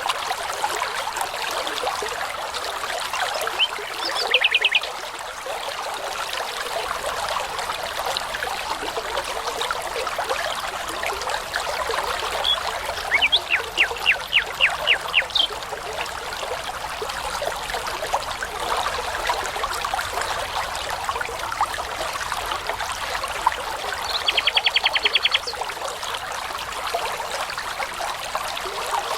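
A brook babbling and trickling steadily. A nightingale sings three short phrases of rapid repeated notes, each lasting about a second, near the start, in the middle and near the end.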